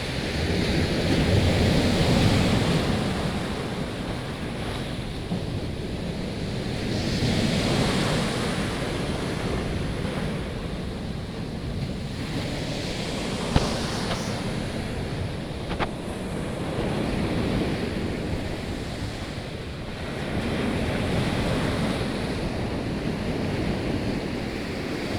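Storm-driven sea waves surging and breaking, swelling and falling back every several seconds, with wind buffeting the microphone. A single sharp click about halfway through.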